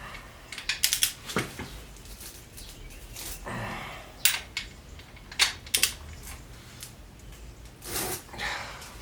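Metal hand tools and sockets clicking and clinking on an engine block, a scattered series of sharp clicks with a couple of softer scraping rustles.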